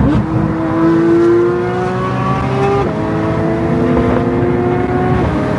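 Porsche 992 GT3's naturally aspirated 4.0-litre flat-six accelerating hard after a downshift, its pitch climbing steadily, then falling at an upshift of the PDK gearbox a little under three seconds in, climbing again and falling at a second upshift near the end.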